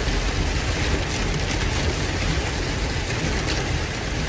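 Steady, loud rushing noise of strong wind buffeting the microphone, with a heavy low rumble.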